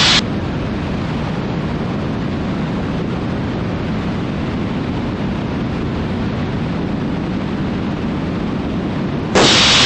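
Steady low noise of the Cessna T310R's engines and airflow on final approach, heard through the cockpit audio. Near the end there is a short burst of brighter hiss as the intercom or radio channel opens.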